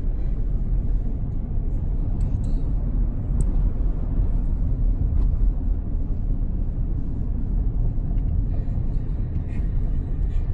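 Steady low road rumble of a car in motion, heard from inside the cabin.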